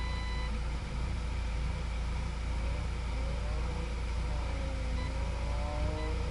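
Car engine idling steadily, heard from inside the cabin, with a short high beep right at the start.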